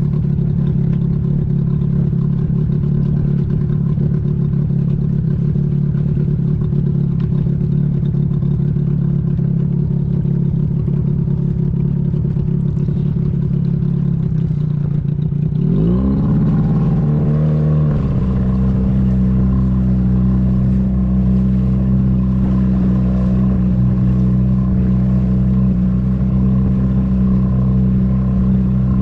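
Motor vehicle engine running steadily; about sixteen seconds in the revs rise over a couple of seconds and then hold at a higher, steady pitch.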